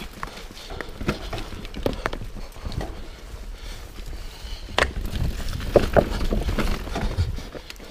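Mountain bike rolling over rough, rocky trail: irregular knocks and rattles from the bike over a low, steady rumble of tyres and wind.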